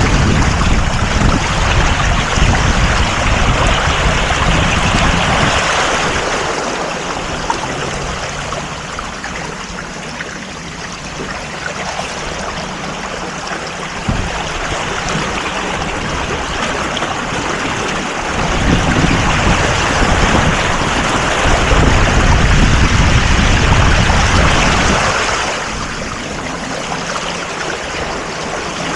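Water rushing along a sailboat's hull under way, with wind buffeting the microphone in gusts that are strongest at the start and again past the middle.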